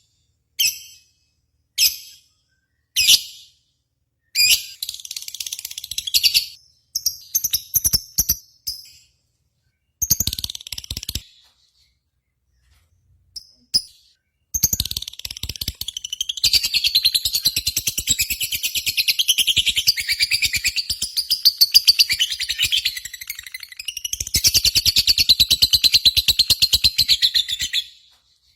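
Lovebirds calling: a run of short, sharp, shrill chirps, then, after a brief pause, a long unbroken high-pitched chattering trill lasting over ten seconds.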